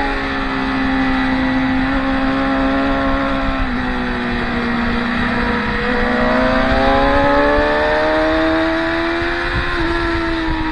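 Track-day motorcycle engines running through a corner: the engine note drops as the bikes slow, with a brief step near four seconds, then climbs steadily from about six seconds in as they accelerate out.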